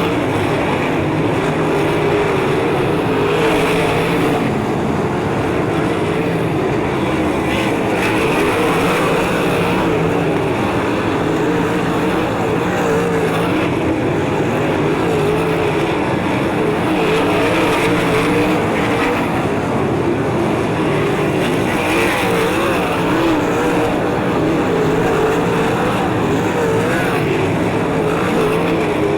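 A field of 360 sprint cars racing, their 360-cubic-inch V8 engines running together in a steady din, the pitch of several engines wavering up and down as the cars circle the track.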